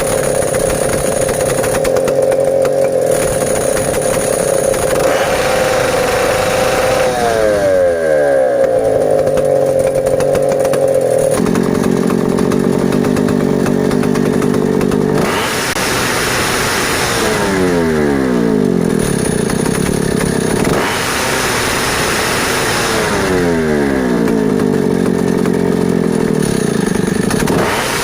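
Stihl 070 chainsaw's two-stroke engine running. It is held at a steady high speed, then allowed to fall away about three times, the pitch sliding down each time.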